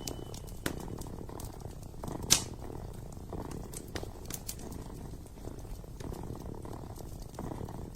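Kitten purring steadily in slow in-and-out cycles, over the sharp crackles and pops of a wood fire burning in a fireplace; one pop about two seconds in is louder than the rest.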